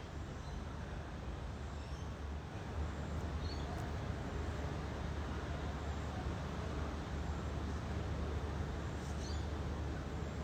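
Steady low outdoor rumble with a few faint, brief bird calls about a third of the way in and again near the end.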